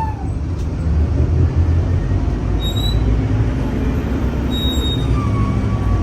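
Scania K310UA city bus's five-cylinder diesel running under way, a steady low rumble. A high whine falls away and dies out just after the start, and a fainter whine comes back about five seconds in.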